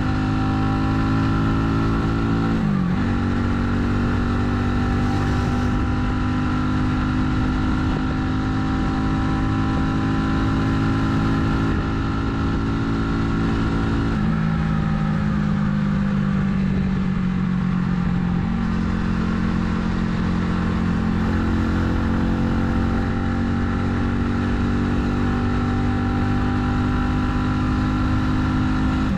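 Italika 250Z motorcycle engine running at riding speed. Its note dips sharply about three seconds in, like a gear change, and steps down to a lower steady note about halfway through.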